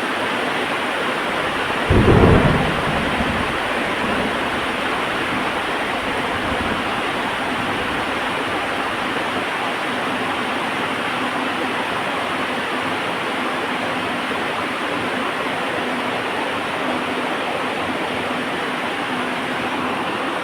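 Heavy rain falling steadily, with a sudden thunder clap about two seconds in that rumbles away over a second or two.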